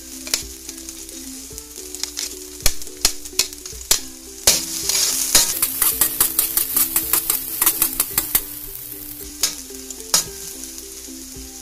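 Chopped garlic and fresh turmeric sizzling in hot oil in a stainless steel wok, stirred with a metal spoon that clicks and scrapes against the pan. The sizzling and scraping is loudest and busiest from about four and a half to eight and a half seconds in. Background music plays underneath.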